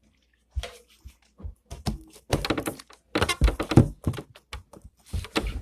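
Handling noise close to the microphone: an irregular series of thunks and knocks as objects are picked up, moved and set down.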